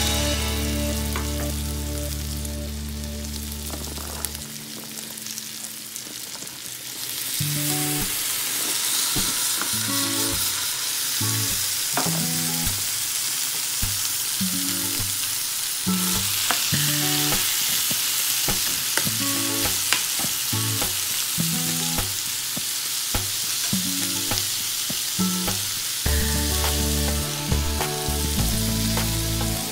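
Tofu and green beans sizzling in hot oil in a frying pan, with a spatula clicking against the pan as they are stirred. The sizzle gets much louder about seven seconds in and then holds steady, with soft background music underneath.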